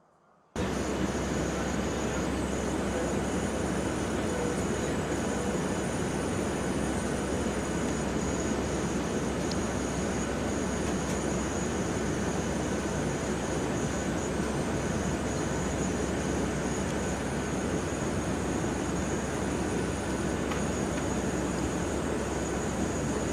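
Steady cabin noise inside a P-8 Poseidon patrol aircraft in flight: an even rush of turbofan engines and airflow with a low hum and faint high whistles. It starts abruptly about half a second in.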